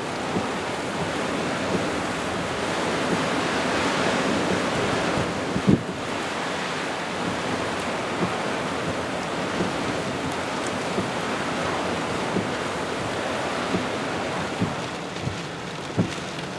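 Steady rush of strong tropical-storm wind and surf, about 30 to 40 mph, with short thumps of wind buffeting the microphone, the loudest about six seconds in.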